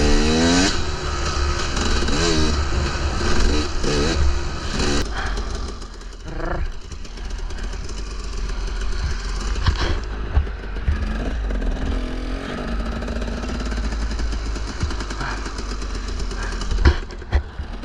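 KTM 300 two-stroke dirt bike engine revving up and down several times in the first five seconds, then running at lower revs. Wind rumbles on the microphone throughout.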